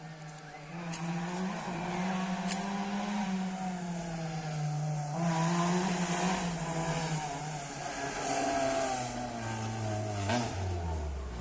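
A rally car's engine running hard as it comes closer: the engine note grows louder about a second in, rises and falls with the throttle, then drops to a lower pitch near the end as it passes.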